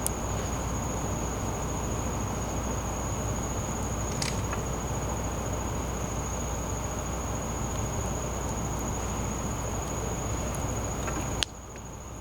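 An insect chirring at one steady high pitch over a campfire's steady crackle, with a few sharp pops. The sound cuts off suddenly near the end, leaving a quieter hiss.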